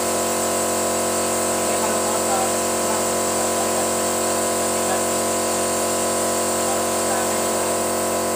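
Car engine running at a steady speed, a constant hum of several steady tones that does not rise or fall.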